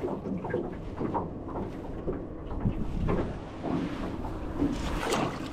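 Wind buffeting the microphone, with scattered faint knocks.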